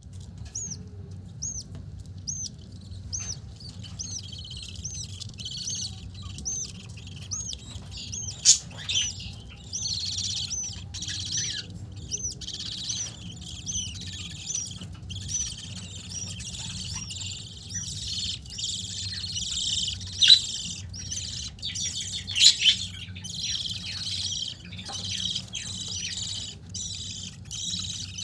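Pet budgerigars chirping: for the first few seconds one bird repeats a short arched call about twice a second, then several birds chatter densely, with a few louder sharp calls standing out. A steady low hum runs underneath.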